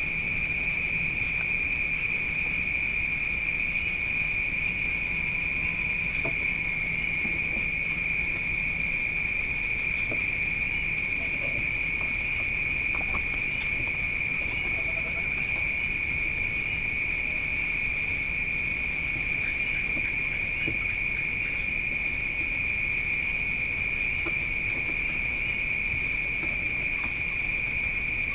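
Crickets chirping in a steady night-time chorus: an unbroken high trill at two pitches.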